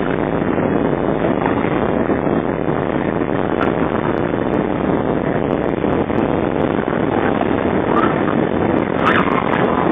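Airbus A320 passenger cabin noise at takeoff power: a loud, steady roar of jet engines and rushing air heard from inside the cabin.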